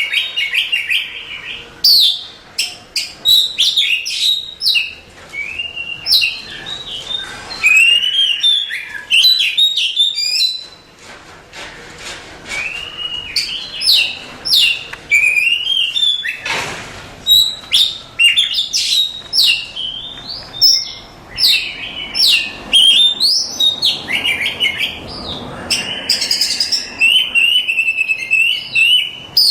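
Oriental magpie-robin singing a long, varied song of clear whistles, chirps and quick trills, with hardly a pause.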